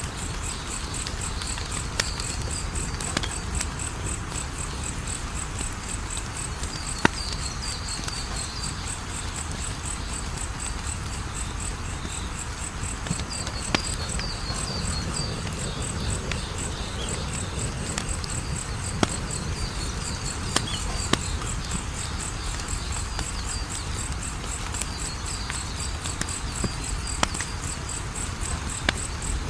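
Wood fire crackling, with sharp single pops every second or two over a steady low rush, while crickets chirp on in a fast, even, high-pitched pulse. Short groups of a lower chirp come and go now and then.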